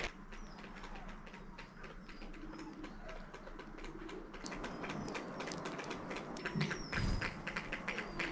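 Small birds chirping in short high calls over a run of quick light taps that grows denser from about halfway. A brief low thump comes about seven seconds in.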